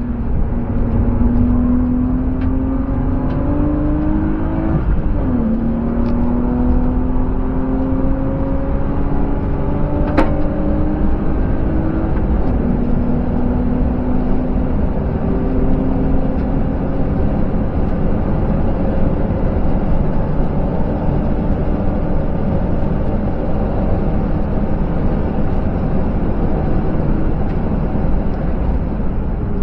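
BMW E36's M50B25TU 2.5-litre straight-six heard from inside the cabin, accelerating hard: the engine note rises, drops at an upshift about five seconds in, rises again and drops at a second upshift about twelve seconds in. After that a steady roar of wind and tyre noise at high speed swamps it. There is a single sharp click about ten seconds in.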